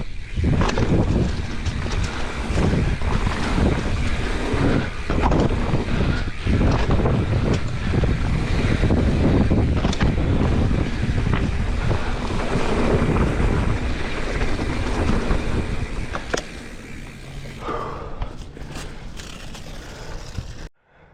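Wind rushing over the microphone of a mountain bike riding a dirt jump trail, with tyres rumbling over dirt and scattered knocks from the bike. It gets quieter about sixteen seconds in and cuts off abruptly near the end.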